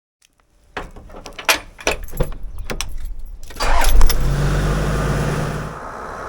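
A run of sharp clicks and rattles, then a car engine starts about three and a half seconds in and runs steadily.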